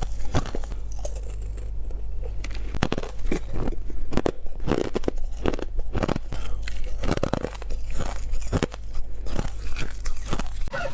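Close-up crunching of white ice being bitten: a quick, irregular run of sharp crunches, several a second, over a steady low hum.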